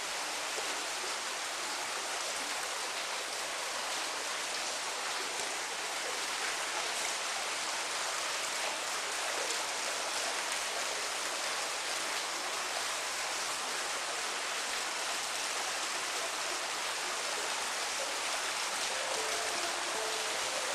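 Steady rain, an even hiss with no distinct drops or changes. A few soft, low musical notes come back in near the end.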